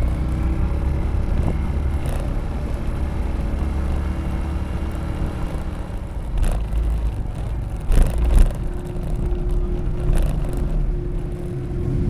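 A steady low vehicle rumble, with a few short knocks in the middle and a steady hum that joins about eight seconds in.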